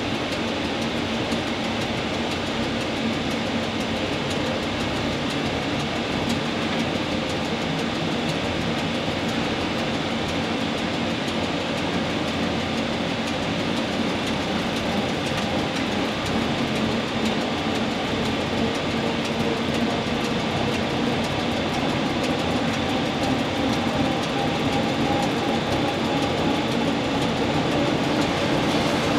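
Rhaetian Railway Ge 6/6 I 'Crocodile' electric locomotive under way on narrow-gauge track: a steady running noise of wheels on rails, slowly growing a little louder.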